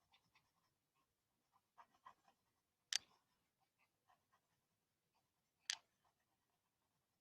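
Faint pencil strokes scratching on paper in short, scattered bits, with two sharper clicks, about three and almost six seconds in.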